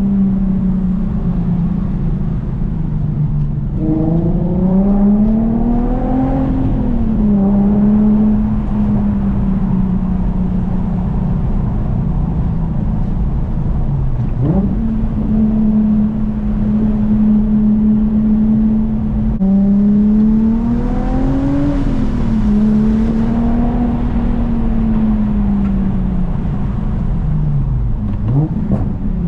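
Infiniti G37S coupe's 3.7-litre V6 running through a custom 3-inch single catback exhaust while driving. The note mostly holds steady, rises and falls twice under acceleration, and twice drops sharply and comes straight back up.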